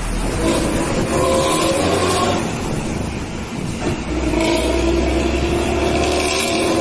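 Luragung intercity buses with modified open exhausts ('knalpot cempreng', a shrill, tinny exhaust) passing at speed on the highway, diesel engines under load. One pass fills the first half; a second bus comes through from about four seconds in.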